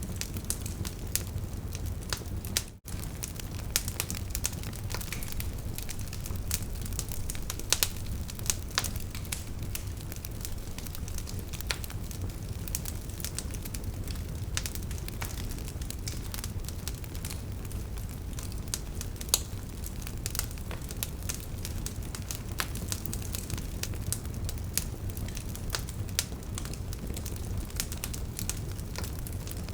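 Wood fire of burning logs crackling, with many irregular sharp pops over a steady low rumble. The sound cuts out for a moment about three seconds in.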